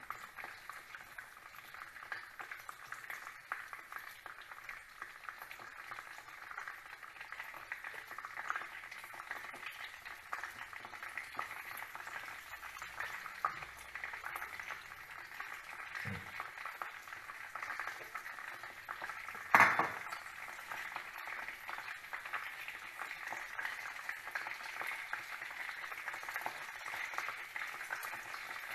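Chicken frying in hot oil: a steady sizzle full of small crackles and pops. A single sharp knock, the loudest sound, comes about two-thirds of the way through.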